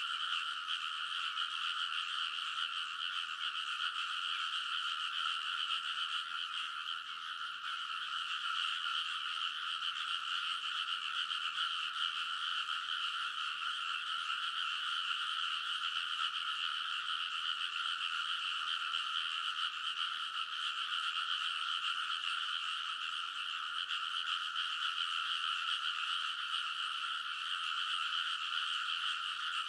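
Dense chorus of many rice-paddy frogs calling at once, a steady, unbroken din of overlapping croaks with no pauses.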